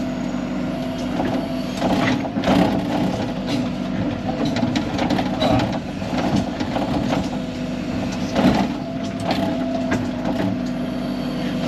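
Excavator's diesel engine running steadily under load while the bucket scrapes and knocks through mud, reeds and rock, with irregular crunching impacts, the biggest a couple of seconds in and again around eight seconds.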